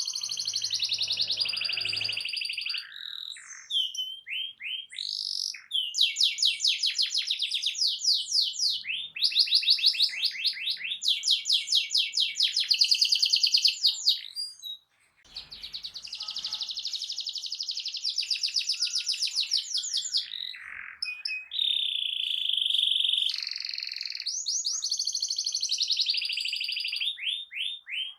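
Domestic canary (local Indonesian kenari) singing a long song of rapid trills and rolling phrases of quickly repeated notes. The song breaks briefly about halfway, and a steady held note comes a little after two thirds of the way through.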